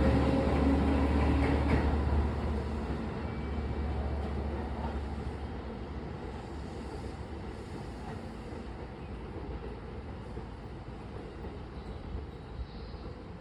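Seibu Sayama Line local electric train pulling out of the station, its motor hum and wheel noise loud at first, then dropping away steadily as it moves off.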